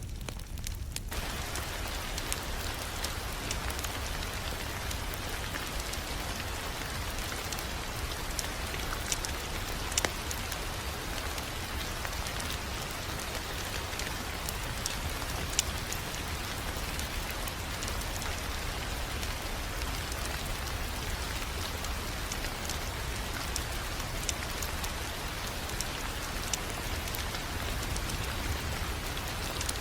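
Fireplace fire crackling, with scattered sharp pops and snaps (a few louder ones), over a steady rain-like hiss that fills in about a second in.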